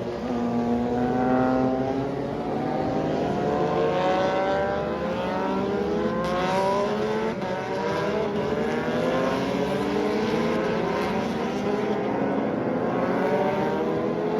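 Several racing motorcycle engines at high revs, their notes overlapping and rising again and again as the bikes accelerate through the gears.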